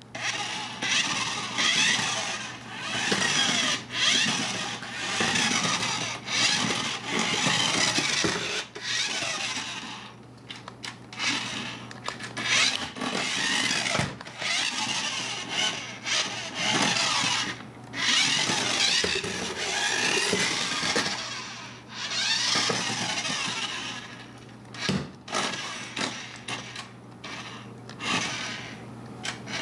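Small electric drive motor and gears of a toy remote-control car whirring in spurts, stopping and starting again every few seconds as it is driven.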